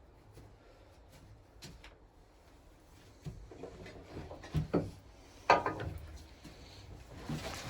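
Handling knocks and clunks at a wood lathe that is not yet running: wood and lathe parts being moved and set, with a few sharp knocks and short rubs in the second half, the loudest about five and a half seconds in.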